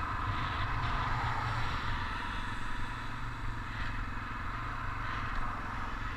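Yamaha TW200 dirt bike's single-cylinder four-stroke engine running steadily, a low rumble.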